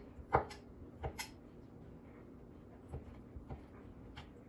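Kitchen knife knocking on a cutting board as cooked chicken is cut into chunks: a few separate, irregular knocks, the loudest about a third of a second in, then lighter ones spaced out.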